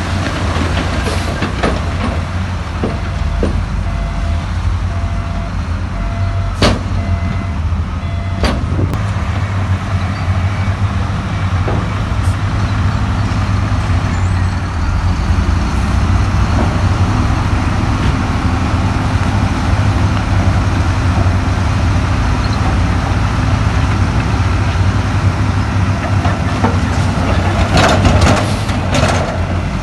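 Heavy diesel earthmoving machinery running steadily with a deep engine rumble, with a couple of sharp metallic knocks about seven and eight and a half seconds in and a burst of clatter near the end. An on-off beeping tone sounds during the first several seconds.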